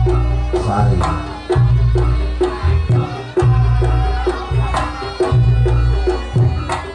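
Traditional Reog Ponorogo gamelan music: hand drums beating a steady, driving rhythm over long low booming notes, with ringing pitched percussion. A man's voice says a name near the start.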